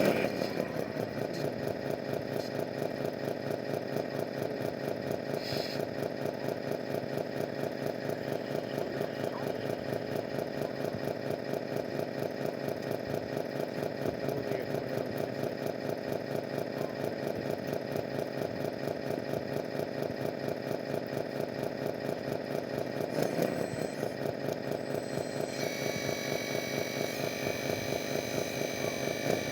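Radio-controlled construction machine running with a steady, evenly pulsing engine-like idle. A higher whine joins in near the end.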